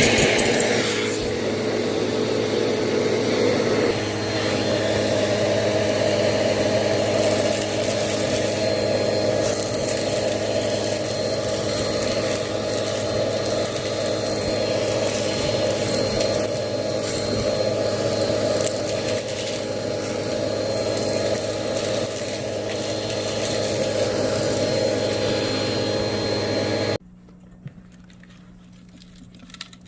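Bissell vacuum cleaner running steadily, sucking up small rubber bands with a fine rattling clatter, then switched off near the end.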